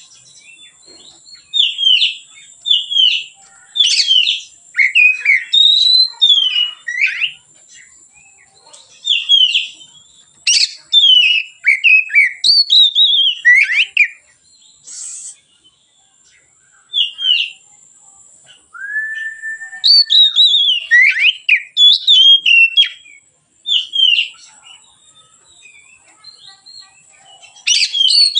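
Oriental magpie-robin (kacer) singing in a relaxed, open style: loud, clear whistled phrases of sharply down-slurred notes, given in bursts of a few seconds with short pauses between them. About two-thirds of the way through comes one lower, held whistle.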